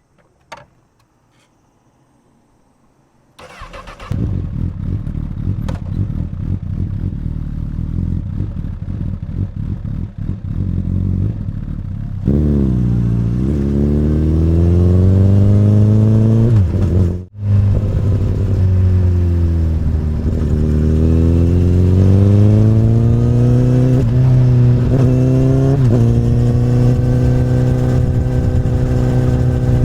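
A click, then a few seconds in the 2008 Honda CBR1000RR's inline-four is cranked and starts through an Akrapovic carbon slip-on exhaust, settling into a steady idle. In the second half it is ridden off, its pitch rising and falling with the throttle, with one brief sudden drop in sound.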